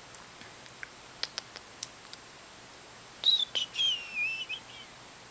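A bird chirping: a short run of high, warbling, whistled notes that glide up and down, about three seconds in and lasting a little over a second, after a few faint clicks.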